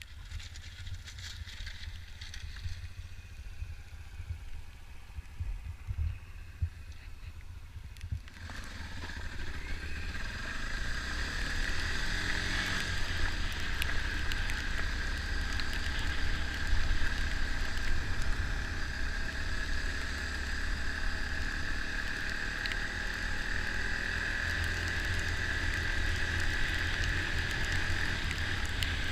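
Dirt bike engine running while being ridden on a trail, with a low rumble throughout; about eight seconds in it gets louder and brighter and stays steady.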